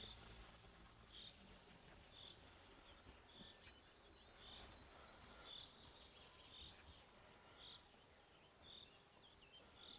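Faint rural outdoor quiet. A steady high-pitched insect trill runs throughout, with a short high chirp repeating evenly about once a second.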